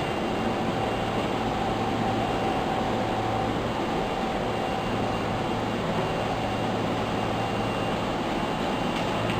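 Osaka Metro Tanimachi Line subway train running at a steady speed: an even rumble with a constant hum of a few steady tones.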